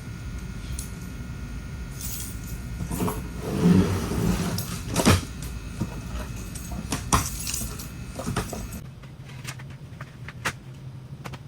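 Rustling, scraping and several sharp clicks and knocks as air filters are handled and slid out of and into an air handler's filter rack, over a steady background hum.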